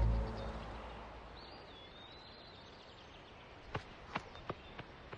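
Music cutting out and fading, then quiet outdoor ambience with a single bird chirp and, about four seconds in, a few short sharp knocks like hoofbeats of a walking horse.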